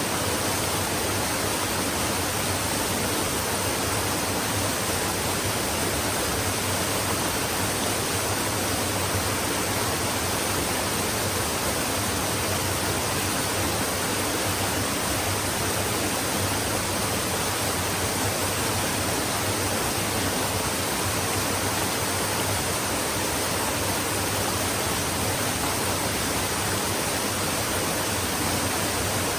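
Flowing stream: a steady, even rushing of water with no distinct splashes or gurgles.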